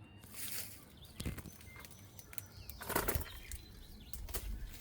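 Leafy apple-tree branches rustling and crackling as they are handled, in a few short bursts with small snaps, the loudest about three seconds in.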